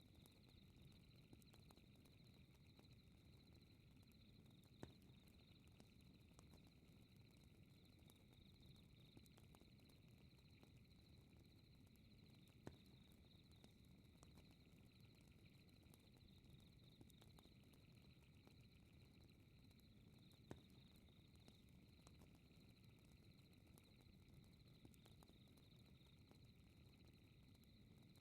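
Faint fireplace ambience: a low steady fire rumble with a sharp crackling pop about every eight seconds, over a steady high-pitched chirring of night insects.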